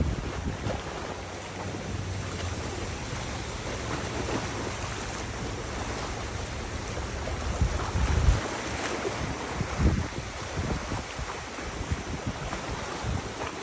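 Wind blowing over the microphone above the steady wash of river water, with heavier gusts buffeting the microphone about eight and ten seconds in.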